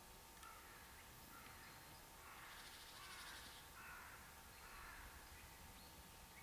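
Faint bird calls: a handful of short calls spread over a few seconds, barely above the quiet background.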